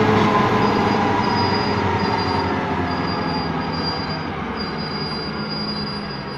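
Freight train rolling over the grade crossing, its steady rumble slowly fading, with a thin high-pitched wheel squeal that comes and goes.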